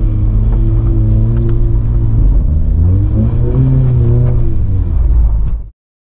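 Engine and exhaust of a Volkswagen Golf R with a valved, non-resonated cat-back exhaust and open intake, pulling and revving so that its note rises and falls with a steady low rumble. The sound cuts off suddenly shortly before the end.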